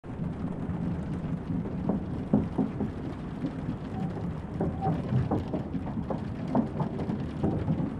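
Rain pattering on a train compartment window, with many small scattered drop taps over a steady low rumble.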